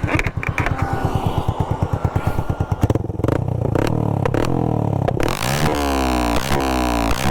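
Single-cylinder Yamaha FZ motorcycle with an aftermarket Akrapovic exhaust, idling with a fast, even pulse, then revved up about three seconds in and held at high revs with the pitch rising and falling.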